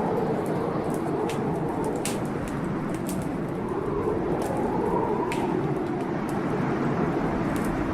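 Blizzard wind howling, its pitch slowly rising and falling, over the irregular sharp pops and crackles of a wood fire burning in a fireplace.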